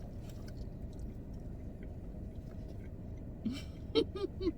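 Chewing with faint wet mouth clicks over a steady low background hum. A few short voiced sounds follow in the last second.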